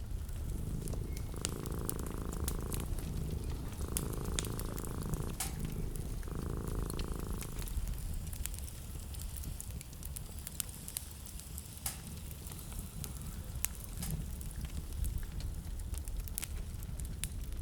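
Wood fire crackling with scattered sharp pops over a steady low rumble. Three separate rough, murmuring sounds of about a second and a half each come in the first half.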